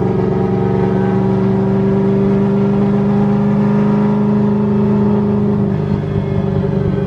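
Car engine running at a steady cruise, a constant drone that changes pitch slightly near the end.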